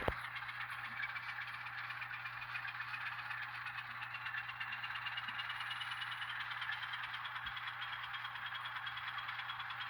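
Sound-equipped N scale Atlas diesel switcher model running on track, its ESU LokSound decoder playing diesel engine sound through the locomotive's small speaker. A thin whine rises slowly in pitch throughout.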